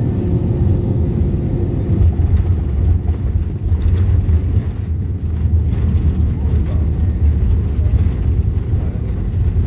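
Airbus A320neo cabin noise during landing: a steady, loud, low rumble of engines and airflow, heard from inside the passenger cabin.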